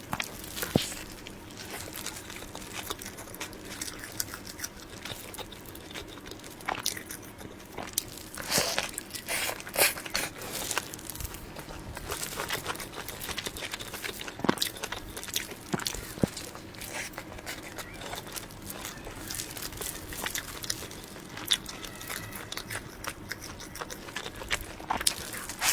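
Close-miked eating sounds: a person biting and chewing soft sponge cake roll with creamy filling, with many sharp mouth clicks and short squishy smacks at an irregular pace.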